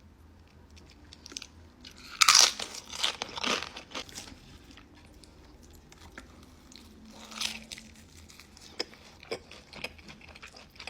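Close-miked crunchy bites and chewing of crisp food, mukbang-style. The loudest run of crunches comes about two seconds in, with another cluster about seven seconds in.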